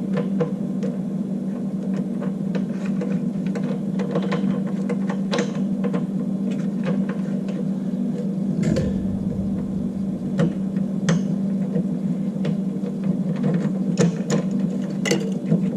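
Scattered light metal clicks and taps from handling the water heater's square-flange element, gasket and mounting bolts as they are fitted back on, coming more often near the end, with a dull thump about halfway through. A steady low hum runs underneath.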